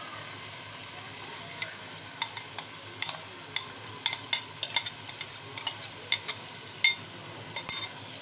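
Onion and tomato masala sizzling steadily in an aluminium pot as yogurt is poured in. From about a second and a half in come many sharp clicks and knocks of utensils against the pot.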